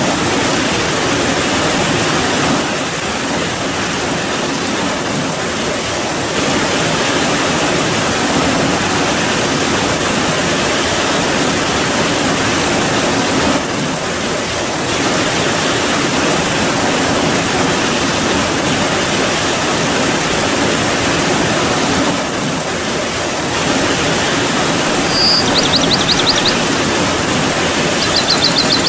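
Heavy rain falling as a steady, dense hiss, easing slightly in the treble a few times. Two short high trills near the end.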